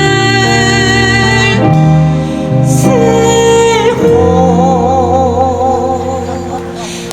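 Live fusion gugak band music with a woman singing, held notes changing every second or two; in the second half one long note wavers with a wide vibrato.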